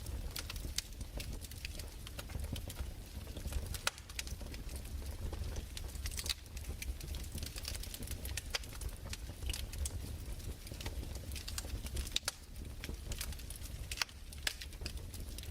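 Fireplace crackling: irregular sharp pops and snaps, some louder than others, over a steady low rumble.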